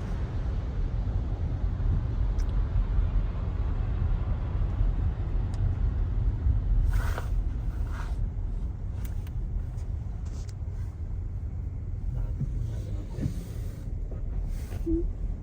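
Steady low rumble of a car driving, heard from inside the cabin, with a few brief hisses around the middle and once near the end.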